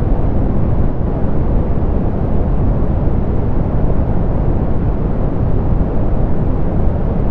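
Steady soft pink noise, a dense even hiss weighted toward the low end and rolled off in the highs, unchanging throughout.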